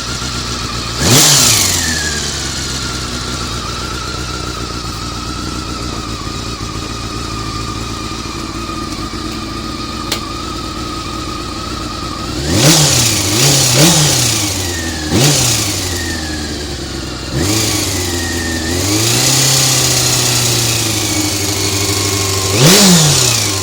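Honda CBR400RR inline-four engine idling and being blipped: a short rev about a second in, a cluster of quick revs in the second half, and one rise held briefly near the end. It is making an abnormal mechanical noise, which the owner suspects comes from the cam gear train.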